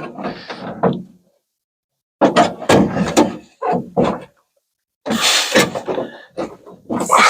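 Knocking, scraping and rattling of a 1950 Ford F1's door window glass against its metal door channel and division bar as the glass is worked back into its track, in four bursts with short pauses between.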